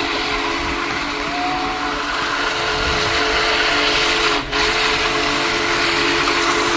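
Steam whistle of Union Pacific Big Boy 4014 blowing a long chord of several tones over a dense hiss of steam, with a brief break about four and a half seconds in.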